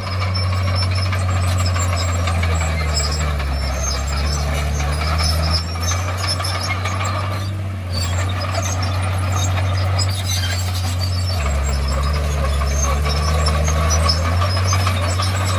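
A Komatsu crawler bulldozer's diesel engine runs with a steady low drone, dropping deeper under load twice. Its steel tracks squeal and clink over it.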